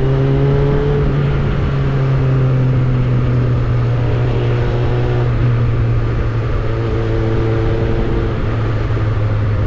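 Suzuki Bandit 600's inline-four engine and exhaust running at a steady speed, with a strong even low note and no revving.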